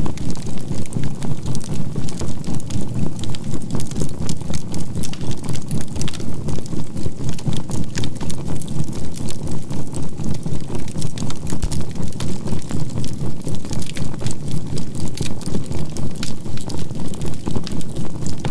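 Burning charcoal crackling with frequent sharp pops, layered over a steady low drone that swells and fades about three to four times a second, like a binaural beat, and a faint steady 528 Hz tone.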